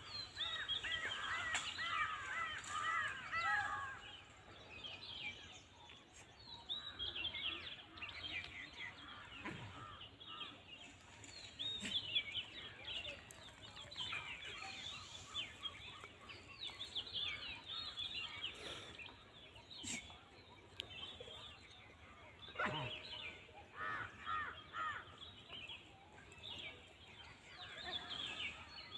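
Many short, high-pitched animal calls, chirps and squeals in quick runs, overlapping one another and coming and going throughout.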